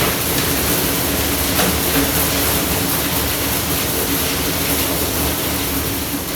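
Train running: a steady rumble with a constant low hum under it and a few faint ticks.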